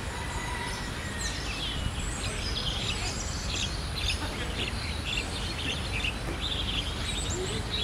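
Small birds chirping and twittering in quick, high, busy bursts over a steady low background rumble.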